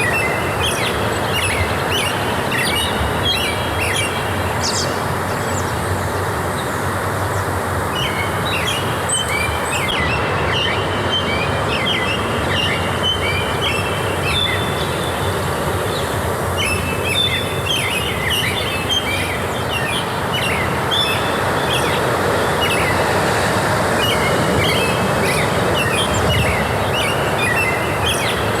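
Many small songbirds chirping and twittering, with brief lulls, over a steady rushing background noise.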